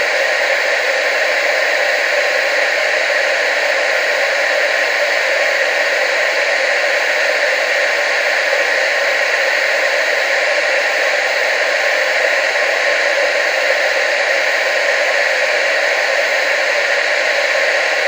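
Television static: a steady, even hiss, strongest in the middle and upper range, with no change over time.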